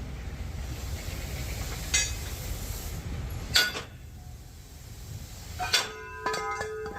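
Heavy metal parts clanking: two sharp clanks about a second and a half apart, then near the end a few knocks and a brief pitched metallic ringing, over a steady low rumble of machinery.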